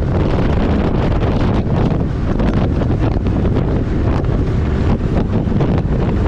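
Wind buffeting the microphone, a loud, steady rushing with a heavy low rumble underneath.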